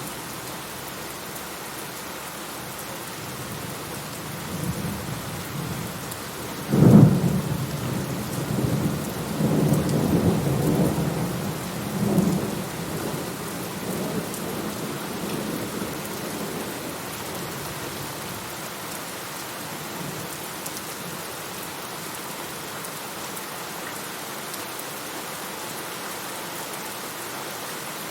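Steady rain with a sudden thunderclap about seven seconds in. The thunder rumbles on in rolls for several seconds and then fades, leaving the rain alone.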